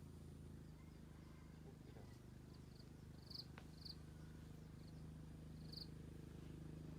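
Quiet outdoor ambience: a faint steady low hum, with a few short high chirps about three and four seconds in and again near six seconds.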